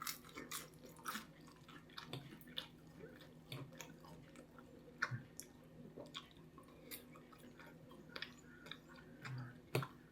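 A person chewing a mouthful of enchilada close to the microphone, with quiet wet mouth clicks and smacks scattered through, over a faint steady hum.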